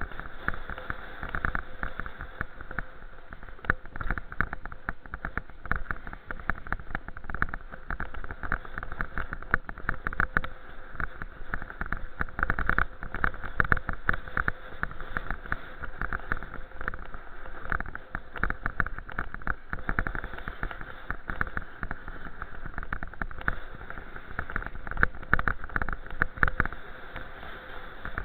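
Wind and road noise on the microphone of a camera riding along on a moving bicycle: a steady rough rumble with many small knocks and rattles.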